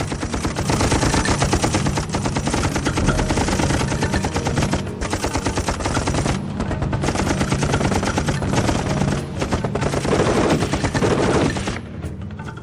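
Heavy machine-gun fire in long rapid bursts, with a few short breaks, typical of a river firefight. It drops away shortly before the end.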